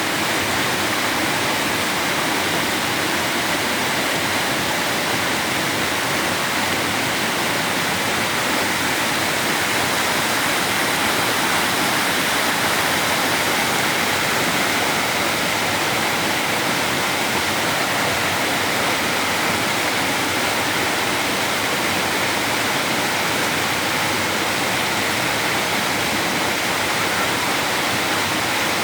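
Waterfall: water falling and splashing into a pool, a loud, steady rush.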